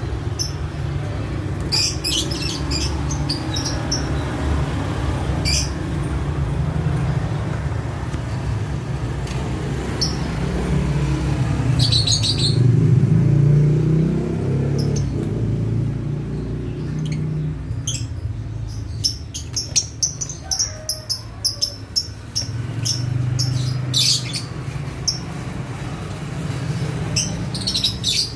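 Lovebirds giving short, sharp high chirps in scattered bursts, busiest toward the end, over a steady low rumble.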